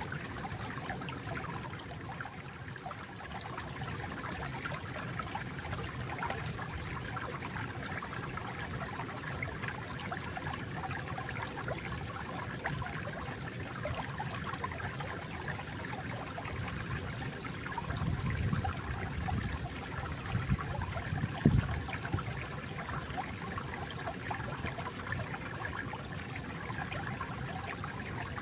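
Flowing water trickling and babbling steadily, with a louder low gurgling surge about two-thirds of the way through and a brief low knock just after it.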